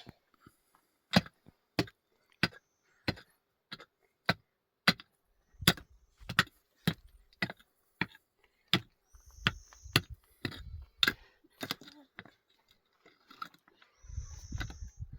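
A hand tool striking wood in a steady rhythm, about one and a half sharp blows a second. The blows thin out and grow weaker near the end.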